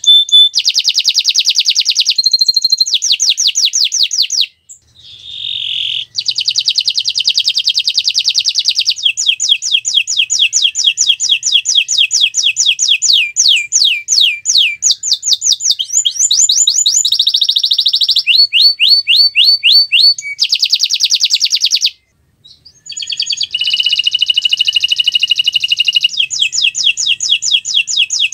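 Domestic canary singing a long, loud song of fast rolling trills. Each phrase is a rapid series of repeated notes, and the phrases keep changing in pitch and speed. The song breaks off briefly about four seconds in and again a little past the middle.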